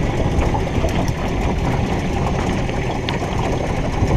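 Small boat's outboard motor running steadily at low speed, a continuous low rumble.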